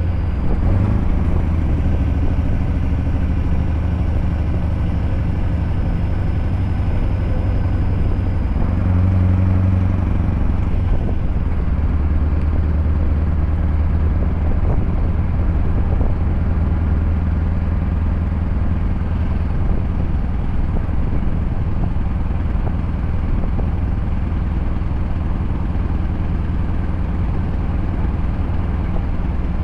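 Scania V8 diesel truck engine running steadily under way, a deep continuous drone whose note shifts briefly about nine seconds in.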